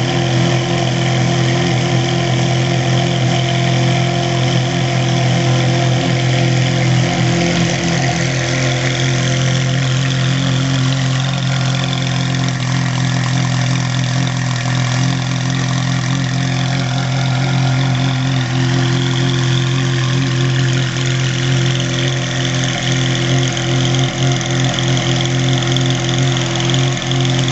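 Ferrari F430's 4.3-litre V8 idling steadily after start-up, at an even pitch with no revving.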